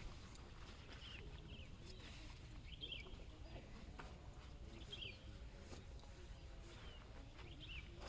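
Faint birds chirping: short, high calls roughly once a second over a low, steady outdoor rumble.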